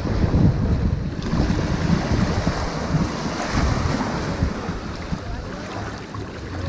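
Ocean surf washing onto a sandy beach, with wind buffeting the microphone. A wave's wash swells about a second in and fades again after about four seconds.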